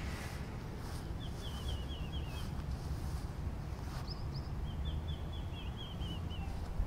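A bird singing outdoors: two runs of quick, repeated downward-slurred chirps, each lasting about two seconds, with a couple of short higher notes between them, over a steady low rumble of wind or microphone noise.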